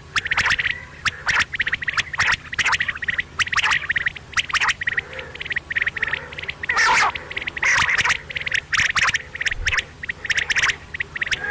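Quail calling over and over in short, rapid bursts of sharp, clipped notes, a dozen or so bursts in quick succession.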